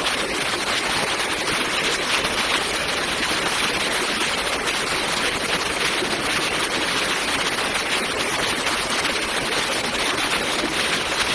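Fast-flowing floodwater rushing in a steady, even noise.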